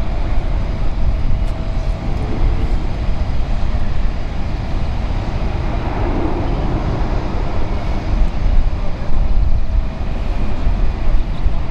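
Jet airliner engines making a steady, loud rumble.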